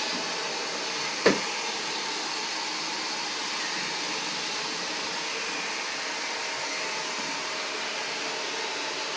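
Vacuum cleaner running steadily, with one sharp knock a little over a second in.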